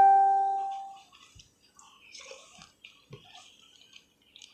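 A clink of tableware rings out and dies away over the first second. Then come faint chewing and small eating noises.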